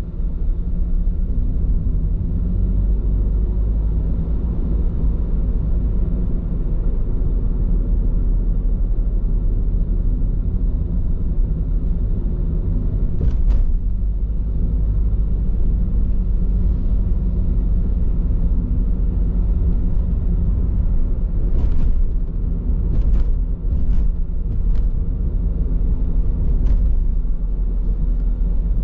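Steady low road rumble and tyre noise of a car driving on Bridgestone Regno tyres, heard inside the cabin, with a few short clicks about halfway through and several more in the last third.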